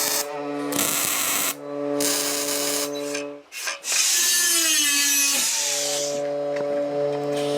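Handheld power tool running, a steady motor hum with a harsh noisy layer of it working against a surface. It stops briefly about three and a half seconds in, then starts again, its pitch shifting before it settles back to a steady run.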